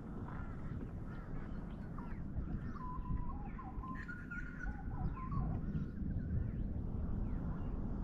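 Birds calling, with many short falling calls and a few held notes, busiest around the middle, over a steady low rumble.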